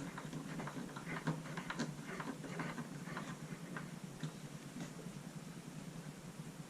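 Light clicks and small taps of screws and a tool being handled while landing gear is screwed in, densest in the first three seconds and sparser after, over a steady low hum.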